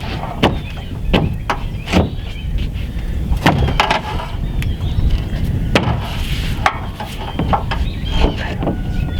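Nailing sheathing panels onto a wall frame: a series of irregularly spaced sharp knocks over a steady low rumble.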